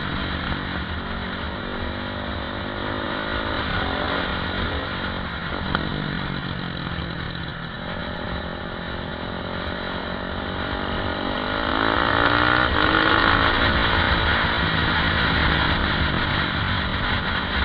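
KTM 520 EXC supermoto's single-cylinder four-stroke engine heard from the onboard camera, its revs rising and falling through the bends. About twelve seconds in it revs up and gets louder.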